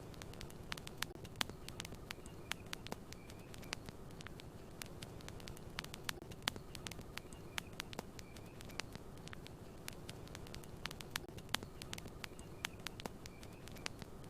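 Campfire crackling: irregular sharp pops and snaps, several a second, some much louder, over a steady low rush of burning wood.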